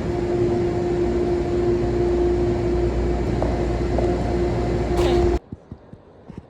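Subway train running: a steady low rumble with a droning hum, which cuts off abruptly about five seconds in, leaving quiet with a few faint clicks.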